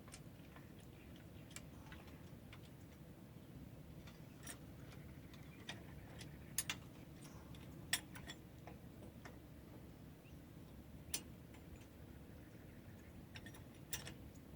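Faint, irregular metallic clicks and light taps from hand tools working on a pickup's rear drum brakes, over a low steady rumble.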